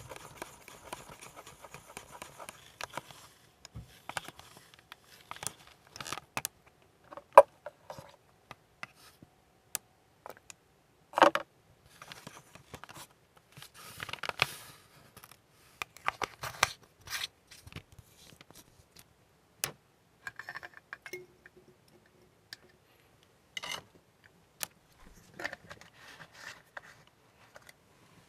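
Scattered clicks, taps and light scrapes of hands, tools and the plastic model being handled at a workbench during painting, with a faint hiss in the first few seconds.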